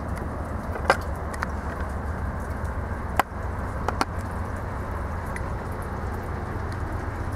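Steady hiss of rain with the low rumble of an approaching diesel freight locomotive, and a few sharp clicks, the loudest about a second in and about three seconds in.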